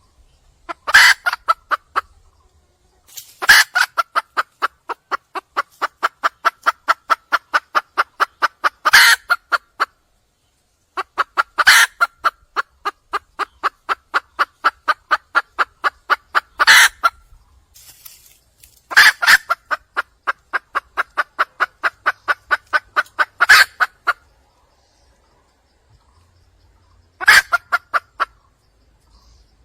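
Wild junglefowl hen calling to attract a male: long runs of rapid clucks at about five a second, each run marked by a louder sharp note near its start and end. Five runs come one after another with short pauses between them.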